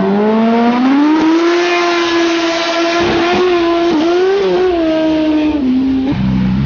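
Superbike with a loud aftermarket exhaust revving up over about a second, holding high revs, then dropping in pitch in two steps near the end.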